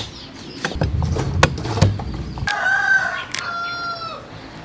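A rooster crowing once, a long call about halfway through that holds its pitch and then drops off. Sharp clicks and a low rumble come before it.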